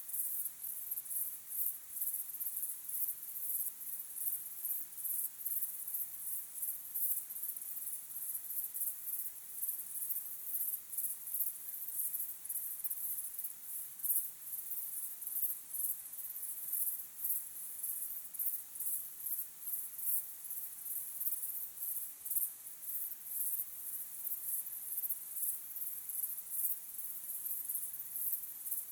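Crickets chirping in a dense, continuous chorus of high, rapidly pulsing chirps.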